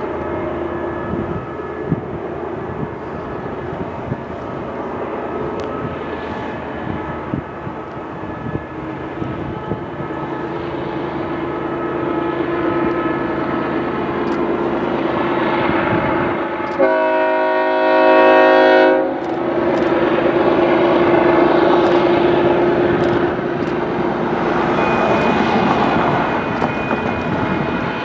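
Canadian Pacific diesel locomotive hauling a loaded coal train on approach, its engine and rail noise growing slowly louder. Its air horn sounds one chord of about two seconds a little past the middle, and sounds again at the very end.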